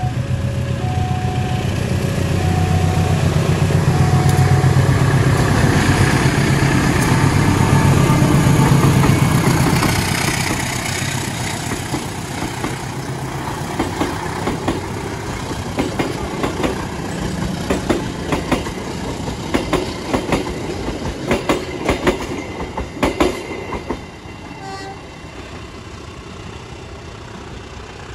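A diesel locomotive hauling a passenger train passes close by. The engine's deep drone is loudest in the first ten seconds; then the coaches' wheels click-clack over the rail joints, fading away near the end.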